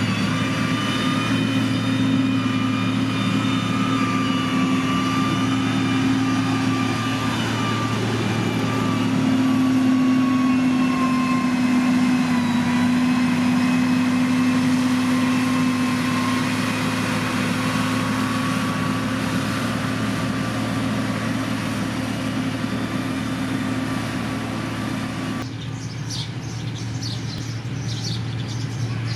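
Heavy diesel engine of road-construction machinery, a motor grader or road roller, running steadily with a slight swell in level about a third of the way in. Near the end the sound cuts abruptly to a quieter engine with short high chirps over it.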